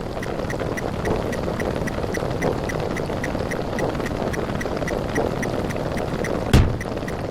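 Rapid-fire counting sound effects piled on top of each other into a dense, steady wash, with regular short ticks several times a second. A deep boom sounds about six and a half seconds in.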